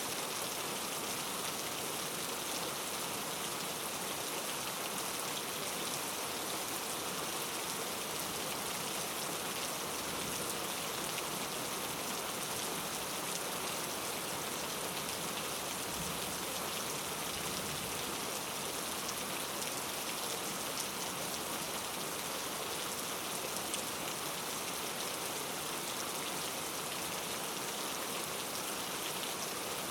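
Steady rain falling on a surface, a continuous even patter of drops.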